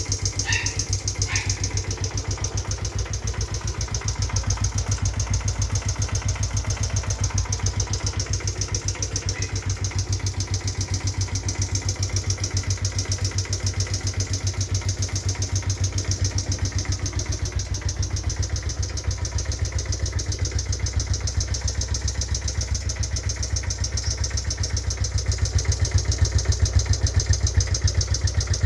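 Suzuki Raider J Pro motorcycle engine running steadily with a fast, regular knock, which the owner calls engine knock and which appeared after he ran the bike hard at top speed. It grows somewhat louder over the last few seconds.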